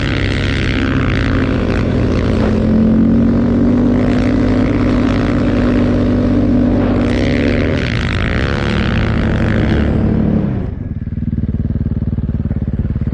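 Dirt bike engine running at high revs with the pitch rising and wavering, then dropping back to a lower, evenly pulsing idle about ten and a half seconds in.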